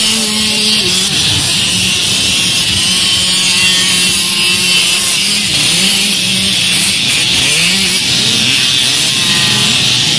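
Several small children's motocross bikes racing, their engines revving up and down with overlapping rising and falling pitches over a steady hiss.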